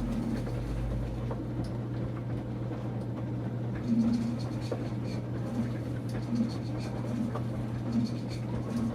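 Enxuta Luxo Soft washing machine running with a load of towels: a steady motor hum with a soft rhythmic swish repeating a little more than once a second, and scattered light clicks.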